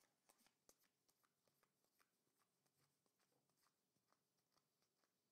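Near silence, with faint scattered clicks and ticks from trading cards being handled.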